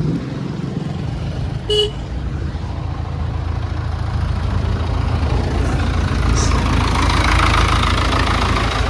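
A motor vehicle's engine running with a steady low rumble, one short horn beep about two seconds in, and the engine noise swelling louder over the last few seconds as it revs or draws closer.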